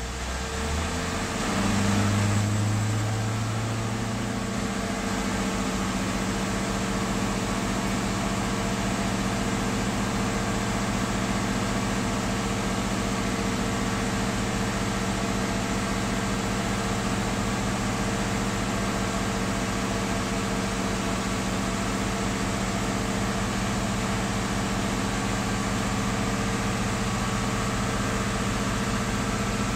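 Blue Bird bus engine speeding up over about the first two seconds, then running steadily at a raised idle with a steady hiss. It is building air-brake pressure back up to full.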